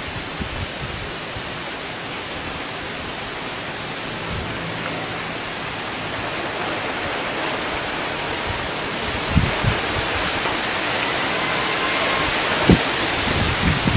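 Heavy rain pouring steadily, growing a little louder, with a few low thumps of wind gusting on the microphone.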